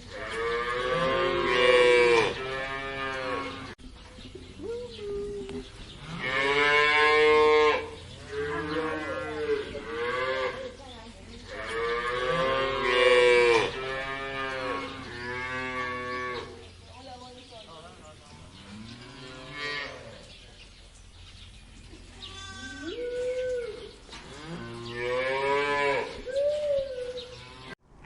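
Cattle mooing: a run of long, drawn-out moos, several animals calling one after another, some loud and some fainter.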